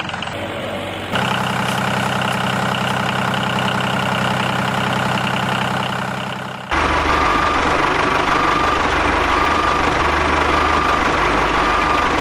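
Engine running steadily, changing abruptly about seven seconds in to a lower, rougher run with a short high beep repeating roughly once a second.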